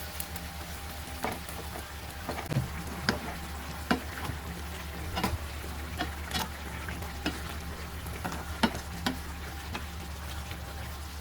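Chicken liver and broccoli stir-frying in a pan: a light sizzle with a spatula knocking and scraping against the pan at irregular moments, about once a second, over a steady low hum.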